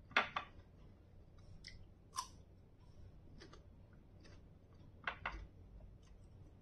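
Close chewing of crisp raw guava: a few short, sharp crunches spaced out, with quiet stretches of softer chewing between them.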